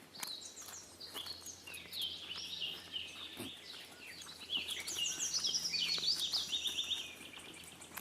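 Birds chirping in quick, overlapping runs of short, falling high notes, busiest from about five to seven seconds in.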